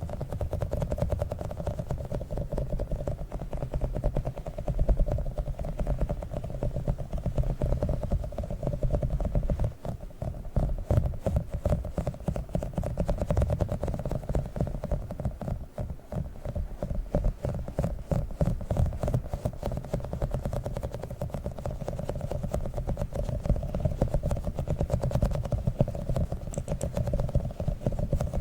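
Small squishy octopus toy squeezed and kneaded close to the microphone: continuous rapid crackly squishing with a low rumble.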